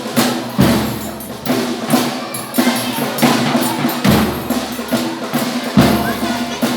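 Folia de Reis folk band playing: heavy drum beats, about one a second, over sustained instrument tones.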